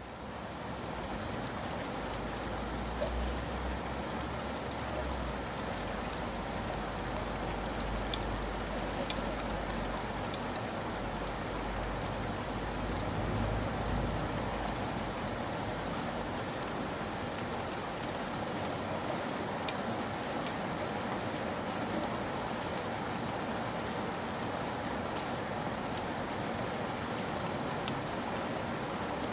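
Steady rain with scattered sharper drop ticks, fading up from silence over the first second, with a low rumble underneath through roughly the first half.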